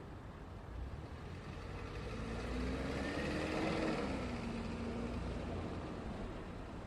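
A road vehicle passing by over a steady background of traffic rumble. Its engine and tyre noise swell to a peak about three to four seconds in, and the engine tone drops in pitch as it goes past, then fades.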